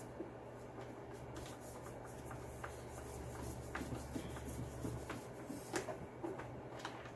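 Small clicks and scraping of a screwdriver turning screws into a leaf blower's plastic housing, over a steady low hum.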